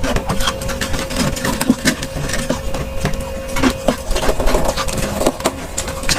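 Freezer frost being crunched and chewed: a dense, irregular run of crisp crackles and crunches, with a steady faint hum underneath.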